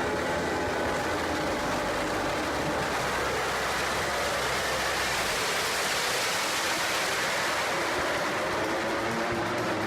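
A passing vehicle: a steady engine hum with a rushing noise that swells to a peak about six seconds in and then eases.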